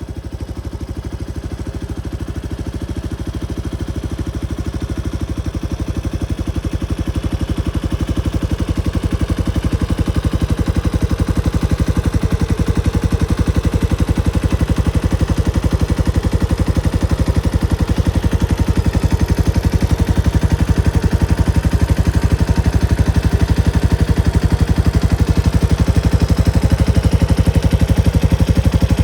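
Kawasaki Estrella RS's air-cooled single-cylinder four-stroke engine running at a steady idle, with an even, rapid firing beat that grows slightly louder over the first several seconds.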